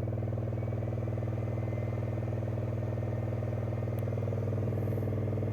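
Subwoofer in free air, driven by a SounDigital 3000.1 Evo 4.0 car amplifier with a rebuilt power supply, playing a steady low bass tone with a fast even pulse; the amplifier is running under test after repair.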